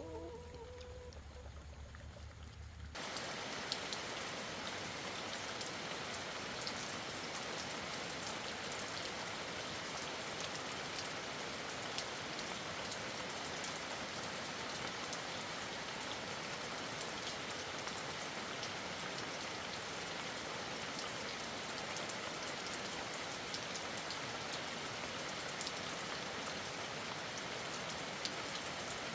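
Steady rain falling on surfaces, a dense even hiss with scattered individual drop ticks. It starts abruptly about three seconds in, replacing a low hum with a brief call.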